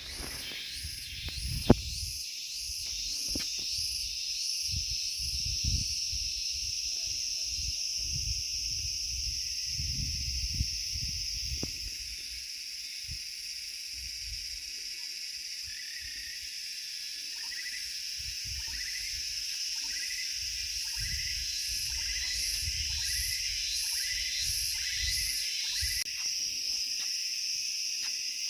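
Rainforest insect chorus: a steady high buzzing with rhythmic pulsing chirps over it, and from about halfway a lower chirp repeating about once a second. Low rumbles and thumps on the microphone come and go.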